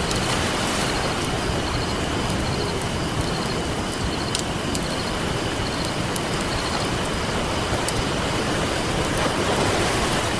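Ocean surf washing steadily onto a beach, with a campfire crackling over it in scattered sharp pops, one louder about four seconds in.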